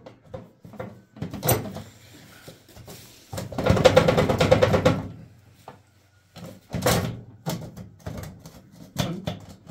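Metal ash pan being dragged out from under a cast-iron wood stove: scattered knocks and clanks, with a loud rattling scrape lasting about two seconds in the middle. The pan is packed with ash, so it is hard to pull.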